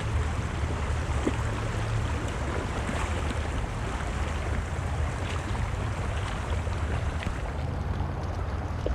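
Steady rush of flowing creek water with a low rumble of wind on the microphone and a few faint clicks.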